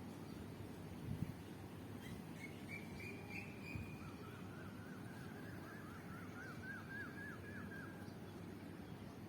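A bird calling: a short high call about two seconds in, then a fast series of repeated chirping notes from about four to eight seconds, over a steady low background noise.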